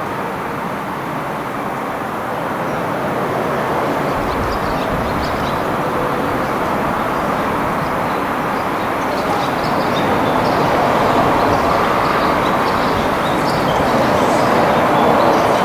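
A train running on the line through the station, growing louder, with a deep rumble coming in about four seconds in and faint high ticks over it.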